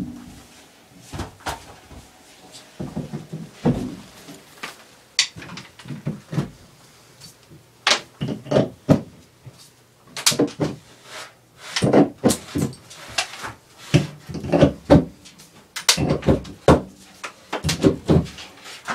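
Irregular knocks, thumps and clatters, sparse at first and coming thick and fast from about halfway through, like hard objects and doors being handled.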